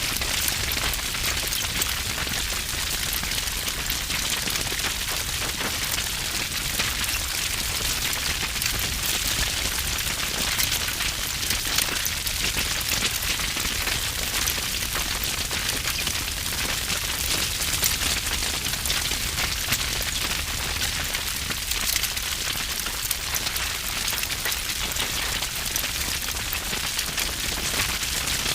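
Wood fire burning with heavy, dense crackling and snapping, a steady stream of small pops over a low roar.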